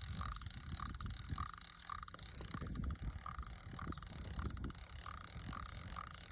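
Carp rod's electronic bite alarm beeping steadily, about two beeps a second, over rapid low clicking from the reel as line is pulled off: a fish making a run with the bait.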